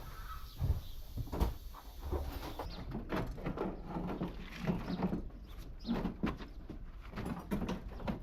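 Irregular knocks and clatter of body-shop work, several short strikes a second with no steady rhythm.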